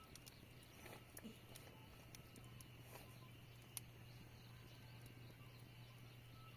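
Near silence: a faint steady low hum with a few soft clicks.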